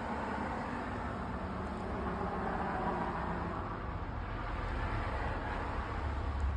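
A car engine running: a steady low rumble, with a broader swell of noise building about two seconds in and easing off by four.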